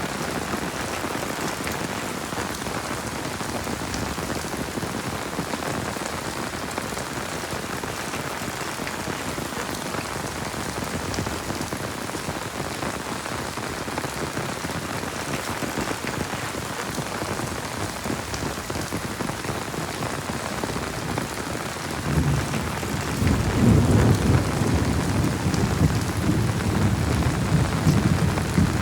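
Steady heavy rain falling. About three-quarters of the way through, a low rumble of thunder comes in and keeps rolling, becoming the loudest sound.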